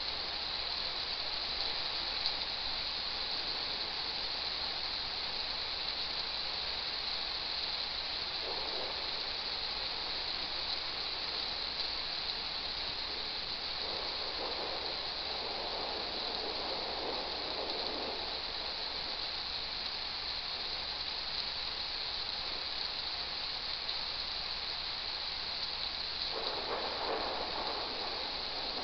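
Steady hiss of a rain sound recording, swelling briefly in a few softer washes, at about a third of the way in, in the middle and near the end.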